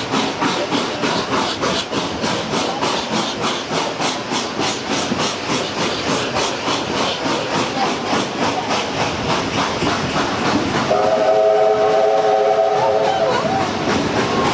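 Steam locomotive working hard, its exhaust beating about four times a second. About eleven seconds in, its whistle sounds a chord of several notes for about two and a half seconds over the rolling train.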